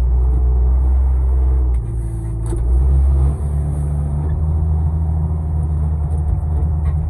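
Payloader (wheel loader) engine running hard under load while pushing heavy snow, its engine note shifting about two and three seconds in.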